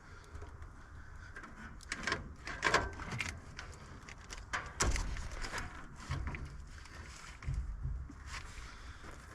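Scattered clicks and knocks, some sharp, over a low rumble.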